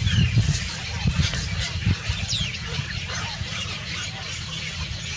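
Small birds chirping, with short high calls and a few quick falling whistles, over a low rumble that is loudest in the first two seconds.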